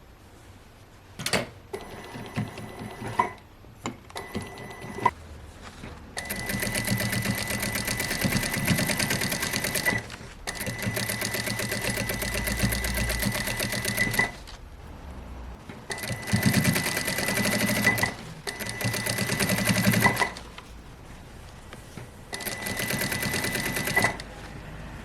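Sewing machine stitching in five runs of a few seconds each, stopping and starting between them, with a few short bursts and clicks before the first long run.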